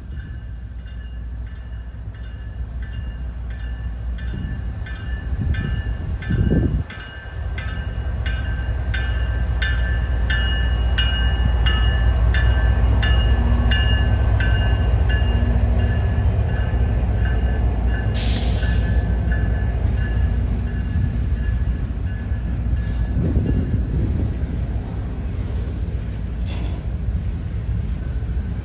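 Canadian National freight train passing a grade crossing while the crossing bell clangs about twice a second. The train's low rumble builds and is loudest about halfway through, and a short sharp hiss comes a little later. The bell stops about two-thirds of the way in while the train keeps rolling.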